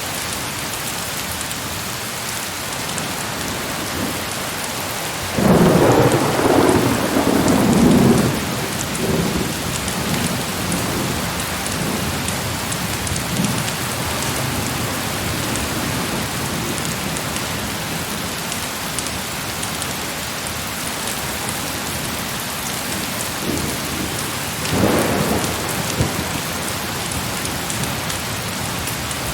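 Steady heavy rain with a loud clap of thunder about five seconds in that rumbles on for a few seconds, and a second, shorter roll of thunder near the end.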